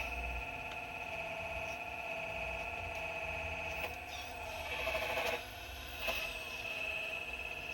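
Excavator working, with a steady high whine from its motor and hydraulics. The sound strains louder about five seconds in, drops briefly, and returns with a click.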